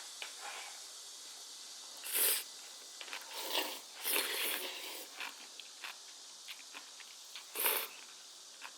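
Crunchy bites and chewing of fresh napa-cabbage geotjeori, in several short crisp bursts with small clicks between. The loudest bites come about two seconds in and near the end.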